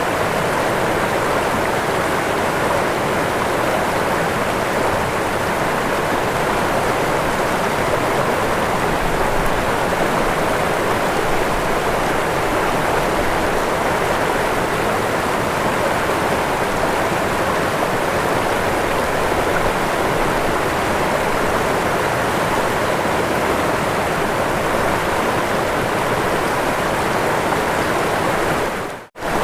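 Waterfall: a steady, even rush of falling water. Near the end the sound cuts out for a split second and comes straight back.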